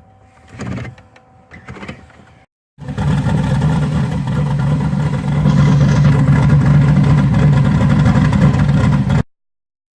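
Turbocharged LS-series V8 running at idle, loud and steady. It starts abruptly about three seconds in, gets slightly louder about halfway through, and cuts off suddenly near the end.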